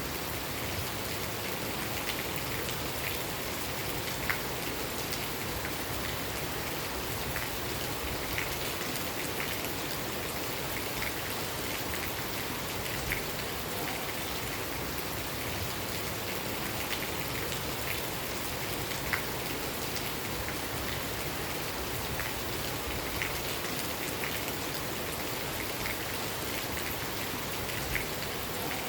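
Steady rain falling, a constant hiss with scattered sharper drops ticking on a surface every second or so.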